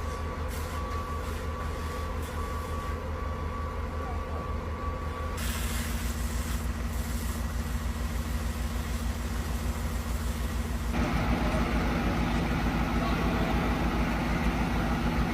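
A steady, low mechanical rumble with an even pulsing beat, like an engine running, heard in three stretches that change abruptly about five seconds and eleven seconds in.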